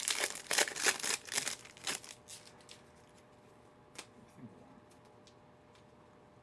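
Trading card pack wrapper crinkling and tearing as it is ripped open, dense for about two seconds, then a few faint clicks as the cards are handled.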